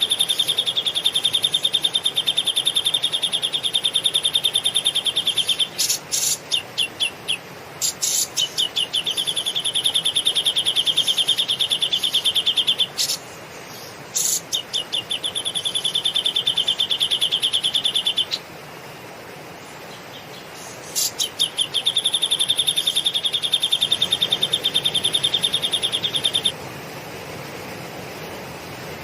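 A cage bird singing lovebird-style chatter: bursts of a few sharp notes, each run straight into a long, very fast trill lasting several seconds, four times over. Steady hiss remains after the last trill ends, a few seconds before the end.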